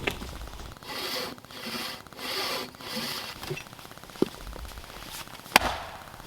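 Saw cutting wood: four even, rasping strokes, followed by two sharp knocks, the second one louder.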